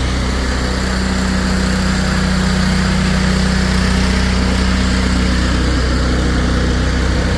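Engine of a snow-plowing machine running steadily, getting slightly louder over the first few seconds.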